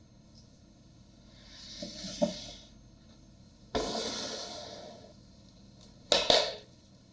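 Kitchen cooking sounds: a hiss that swells and fades about two seconds in, then a louder hiss that starts suddenly and dies away over a second and a half, followed by a couple of sharp knocks near the end.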